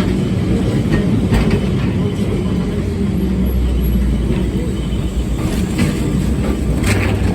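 Lisbon Tram 28 streetcar running on its rails: a steady low rumble of wheels and car body, with a couple of brief knocks from the wheels and rails.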